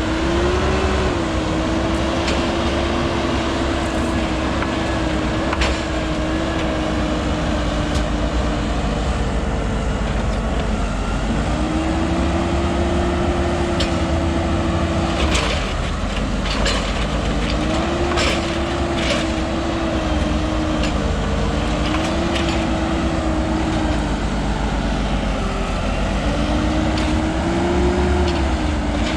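Heavy machine diesel engine working under load, its note dipping and picking up again several times, with a few metal clanks near the middle.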